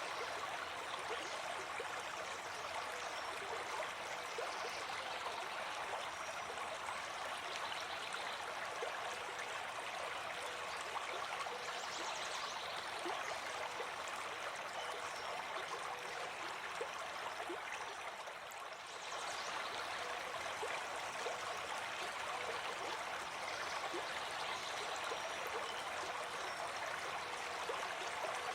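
Running water, a stream or small cascade, flowing steadily with a busy trickling and splashing texture; it dips briefly about two-thirds of the way through.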